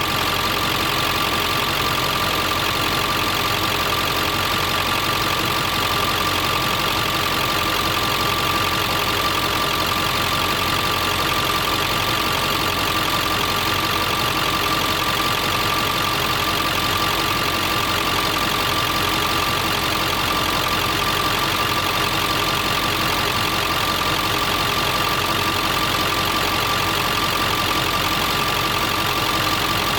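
Ford 7.3 Powerstroke V8 turbodiesel idling steadily on fresh oil just after an oil change, with a steady high tone running over the engine sound.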